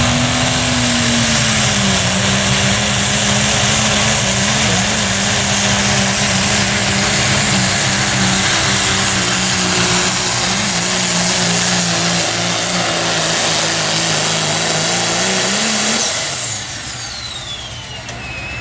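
Diesel pulling truck's engine running flat out under load for about sixteen seconds, with a high whistle over it. Near the end the driver lets off: the engine winds down and the whistle falls away.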